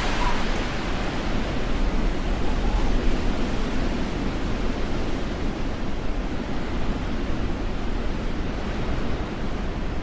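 Storm wind blowing over the camera microphone: a steady rush of noise, heaviest in the deep low end.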